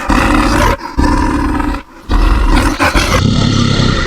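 Animal roar sound effect for a bear: loud, rough roars in three long bursts with short breaks, the last trailing off near the end.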